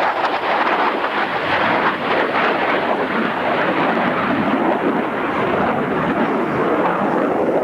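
Loud, steady roar of a military jet's engines as the aircraft passes.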